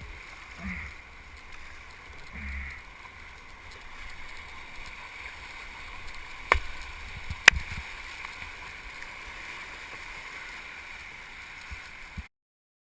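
Steady rush of whitewater rapids, with two sharp knocks about a second apart midway through. The sound cuts off suddenly near the end.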